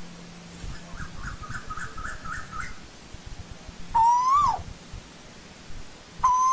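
Asian koel calling: a faint quick run of about eight short notes, then two loud calls, each rising slightly and then dropping sharply, about two seconds apart.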